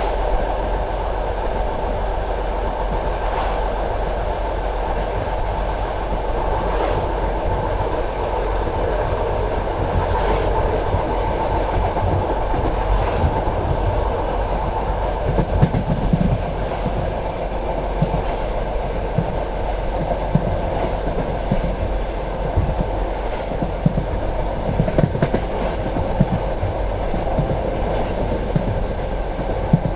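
Passenger train carriage running along the track: a steady rumble of steel wheels on rails, with clicks and low knocks from the wheels crossing rail joints, the knocks coming thicker in the second half.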